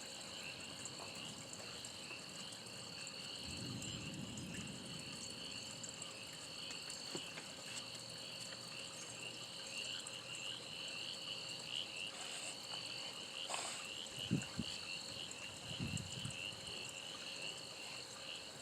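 Steady outdoor chorus of frogs and insects trilling together, with a few brief low thumps and rumbles at intervals.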